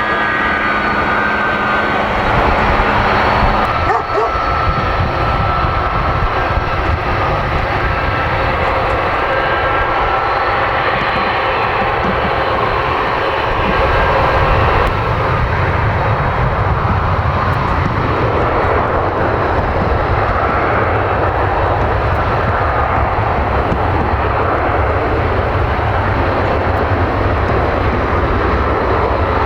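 Airbus A300 turbofan jet engines running loud and steady. A high whine falls in pitch over the first few seconds, then holds.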